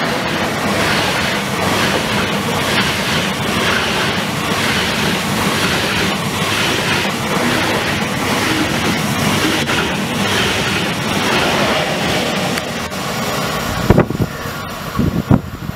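Deutsche Bahn ICE 3 high-speed electric train passing close by at speed: a loud, steady rush of wheel and air noise with a regular beat in it. Near the end the rush drops and a few low thumps follow.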